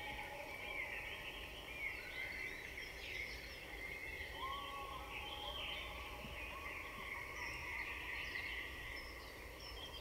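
Small birds chirping and singing, with many short calls overlapping.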